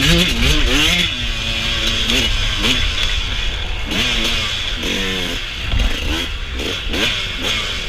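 Suzuki RM125 single-cylinder two-stroke dirt bike engine revving hard at full throttle, its pitch repeatedly climbing and dropping as the rider works the throttle and shifts.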